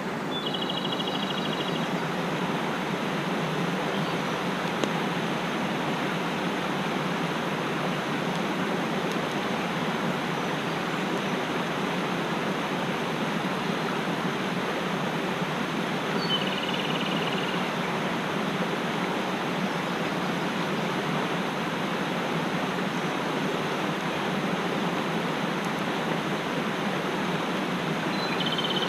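Mountain stream rushing steadily over rocks, with a short high bird call three times: near the start, about halfway through, and at the end.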